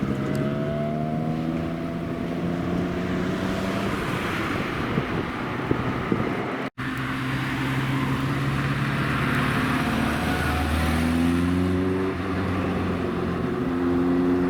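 Car engine accelerating under load, its pitch rising gradually. A sudden break comes about seven seconds in, and then the engine climbs in pitch again.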